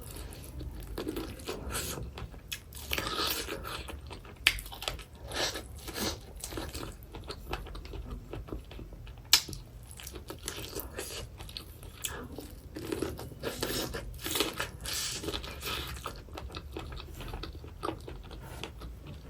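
Close-up chewing and biting of boiled corn on the cob, with irregular crunches and wet mouth clicks; one sharper click about nine seconds in.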